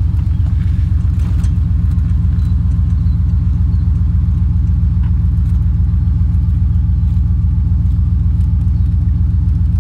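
A vehicle engine running steadily, a low, even drone.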